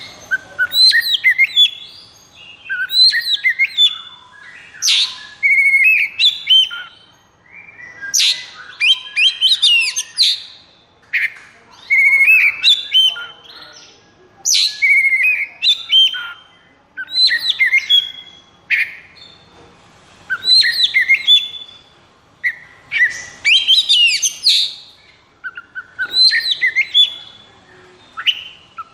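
Oriental magpie-robin (kacer) singing its high-arousal 'konslet' fighting song: loud, varied phrases of clear whistles and fast trills, one burst about every two seconds with short gaps between.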